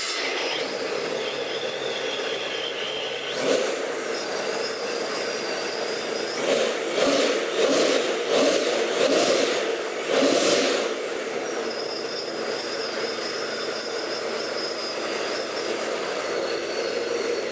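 Ford 408 Windsor stroker V8 with a ProCharger supercharger running on an engine stand. It idles steadily, with a throttle blip about three and a half seconds in and a string of quick blips midway, the supercharger's whine rising and falling with each one.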